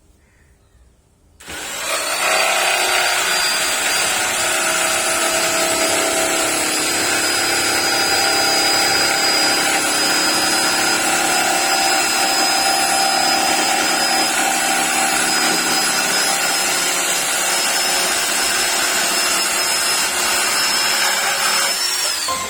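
Daewoo DAJS600 electric jigsaw running and sawing, with a steady high motor whine. It starts about a second and a half in, and near the end the whine drops as the motor stops.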